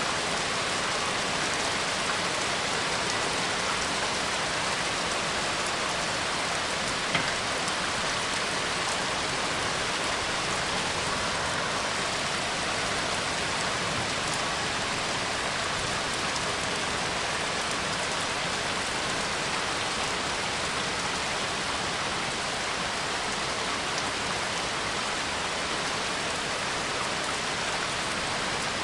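Steady rain falling and pattering on surfaces, an even hiss of drops with one sharper tap about seven seconds in.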